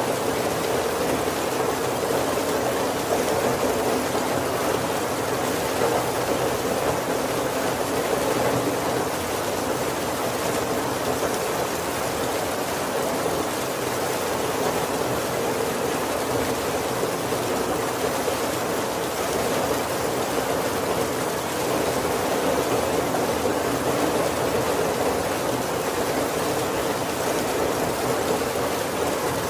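Heavy rain falling steadily on a roof, heard from inside: an even, dense hiss with no thunder.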